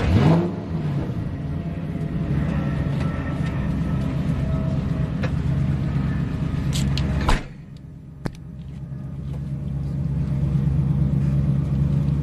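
Aston Martin GT4's V8 engine idling, heard from inside the cabin, with a brief rev right at the start. About seven seconds in a sharp click cuts the sound down suddenly, and the idle builds back up over the next few seconds.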